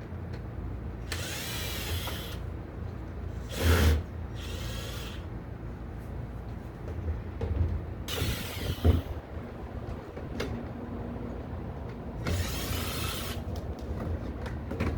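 Power drill run in about five short bursts of a few seconds or less each, as pipe fittings are fixed in place.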